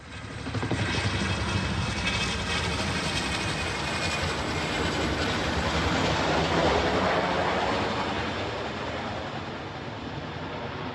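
Helicopter flying overhead: a steady rotor and engine noise that swells toward the middle and eases off a little near the end.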